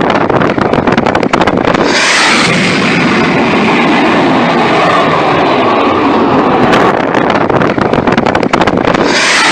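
Fighter jet making a low pass: a loud, dense rushing roar that comes in abruptly about two seconds in. Before it, wind buffets the microphone.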